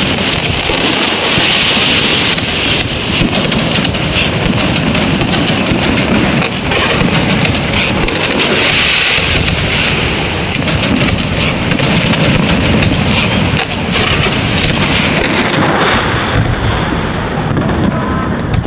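Fireworks going off in a dense, continuous barrage: many bangs and crackles overlapping with no break.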